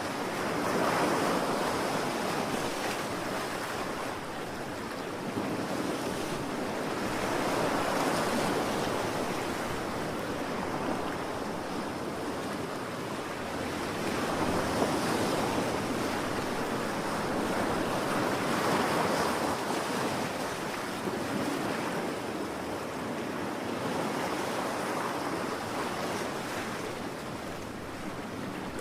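Ocean waves breaking and washing in, one surge swelling and fading every four to six seconds over a steady rush of surf.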